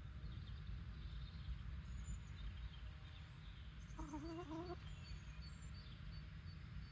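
A chicken gives one short call with a wavering pitch about four seconds in, over a steady low background rumble. Small birds chirp faintly and high in the background.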